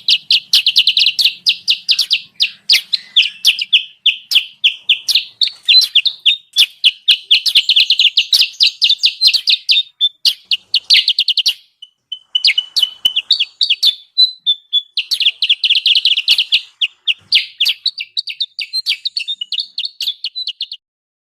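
Bird-lure recording of kutilang sutra calls: fast, high chattering chirps in long dense runs, broken by a couple of brief pauses, stopping abruptly near the end.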